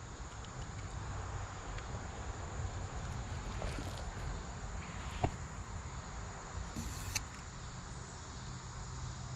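Steady outdoor ambience with an insect chorus trilling high and steady, and a few faint short clicks, including a brief hiss about seven seconds in.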